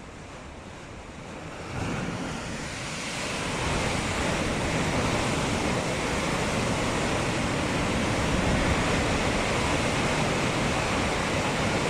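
Rushing water, a heavy torrent that surges louder about two seconds in and builds to a steady, loud rush.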